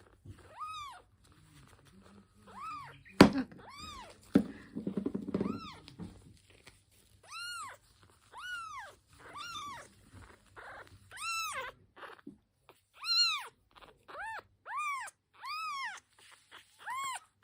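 Unweaned kitten meowing over and over: thin, high cries that rise and fall, each about half a second long, coming about once a second. A sharp knock sounds about three seconds in.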